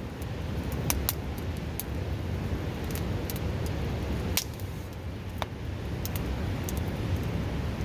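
Wood fire crackling, with sharp irregular pops every second or so, over the steady, loud rush of a river.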